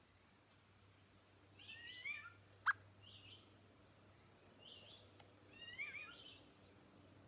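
Forest birds calling: short high chirps repeated about every second, with two louder phrases of quick sweeping notes, about two seconds in and again near six seconds. A single sharp click, the loudest sound, comes just under three seconds in.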